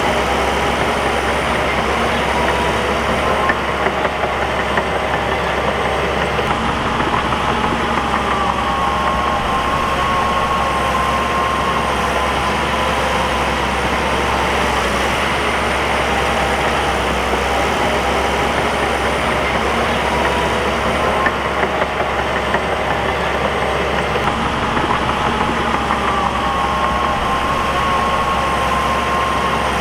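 Bulldozer's diesel engine running steadily, with a whining tone that rises and falls twice and a few short knocks.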